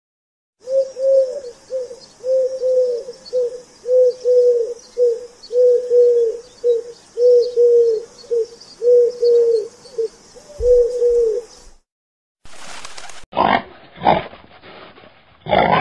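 Domestic pigeon cooing over and over, each phrase a longer coo followed by a short one, repeating about every second and a half. Near the end, after a short pause, piglets give a few short grunts.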